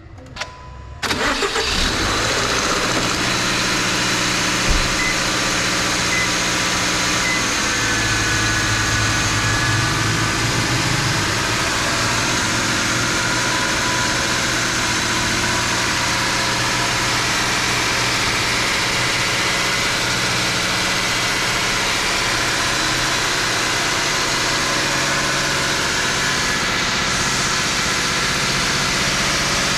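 Subaru Impreza's FB16 1.6-litre flat-four engine on a cold start: it cranks briefly and catches about a second in, then idles steadily. The owner suspects something is wrong with it.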